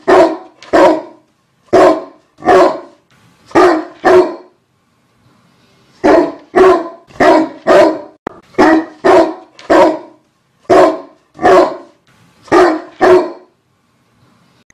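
A dog barking repeatedly in short single barks, often half a second or less apart. The barks pause for about a second and a half around four seconds in, then come faster, and stop shortly before the end.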